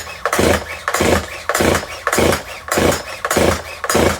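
Stihl MS181 chainsaw's recoil starter cord pulled over and over, about two pulls a second, each a rasping whirr of rope and flywheel; the engine does not catch, a saw that has been left sitting unused.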